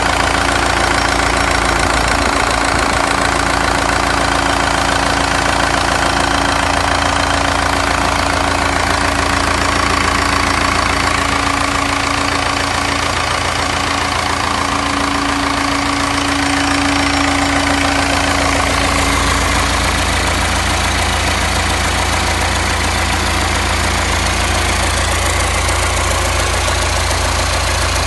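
Cummins 4BT 3.9-litre four-cylinder turbodiesel with a mechanical VE rotary injection pump, idling steadily on a test run.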